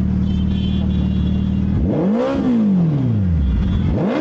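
Suzuki Hayabusa inline-four idling steadily, then blipped once about two seconds in: the revs climb fast and fall back to idle. A second rev begins near the end.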